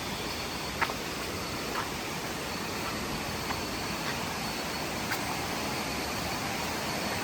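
Steady hiss of heavy rain and rushing river water, with a few faint taps.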